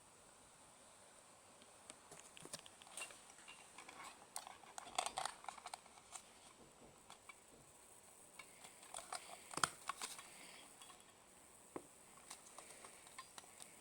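Scattered small clicks, taps and rustles of objects being handled, bunched in two spells, over a faint steady high hiss.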